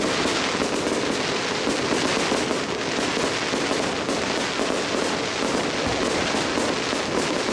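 Fireworks going off in a rapid, continuous barrage: a dense, unbroken stream of crackling pops at a steady level.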